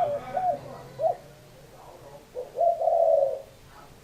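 Spotted dove cooing: the tail of a phrase with two short notes just after the start, another short note about a second in, then one long, low coo near the end.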